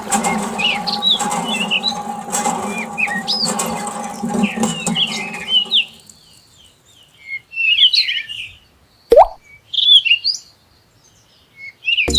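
Small birds chirping rapidly over a steady hum; the hum cuts off suddenly about halfway through, and the chirping continues more sparsely.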